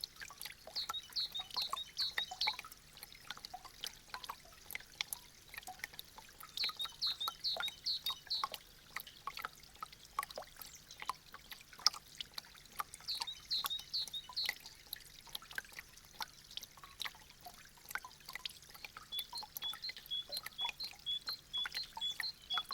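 Meltwater dripping from icicles: many irregular drips and taps. High chirping notes come in short quick runs three times, then as a steady run of paired chirps about twice a second near the end.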